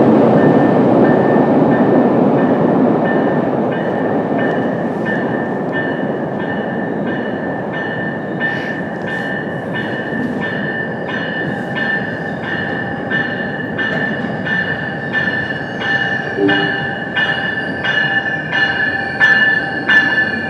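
MBTA commuter rail train running on the tracks: a loud rumble that fades over the first several seconds. Over the second half a high steady ringing with a regular beat about twice a second comes in and grows louder.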